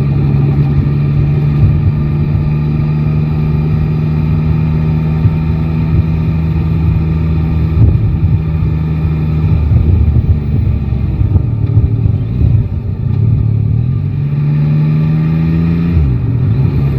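Yamaha Tracer 9 GT's three-cylinder engine, heard from the rider's seat, running at a steady pitch. It eases off about ten seconds in, then rises under acceleration and drops with an upshift near the end.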